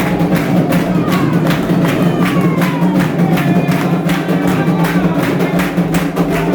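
Candomblé ritual music: atabaque hand drums keep a quick, steady beat while voices sing.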